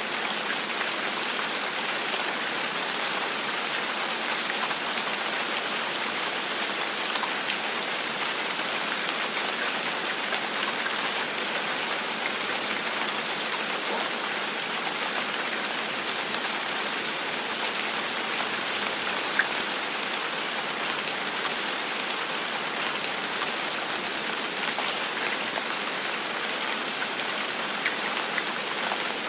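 Steady gentle rain falling, a continuous even hiss with scattered individual drop ticks and one slightly louder drop about two-thirds of the way through.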